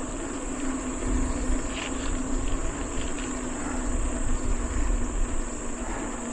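Mountain bike on the move: wind rumble on the camera microphone and rolling tyre noise, with a steady high insect drone behind it.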